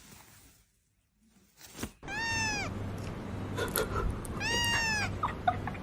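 A cat meowing twice, about two seconds apart, each meow rising and then falling in pitch, over a low steady hum.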